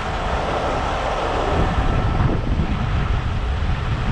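A heavy truck's engine running steadily as the truck backs up slowly, mixed with wind buffeting the microphone.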